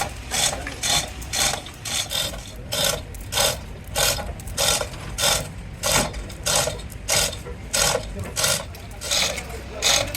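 Regular rasping metal strokes, about one and a half a second, over a steady low machine hum, as in metal being cut or filed while a gear is made.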